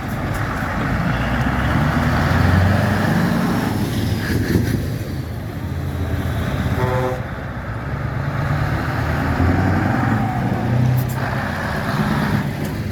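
Diesel engines of tractors and other heavy vehicles running as they drive past, their rumble rising and falling, with a brief horn toot about halfway through.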